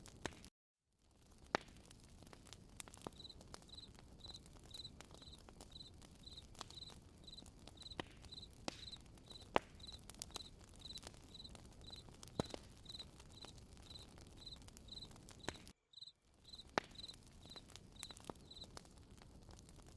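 Campfire crackling with scattered sharp pops, under a cricket chirping steadily about twice a second from a few seconds in until near the end. The sound cuts out briefly twice, once near the start and once about three-quarters through.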